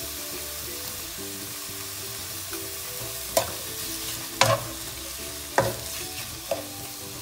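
Prawns sizzling in hot oil in a nonstick frying pan as a wooden spatula stirs them. Four sharp knocks of the spatula against the pan come in the second half.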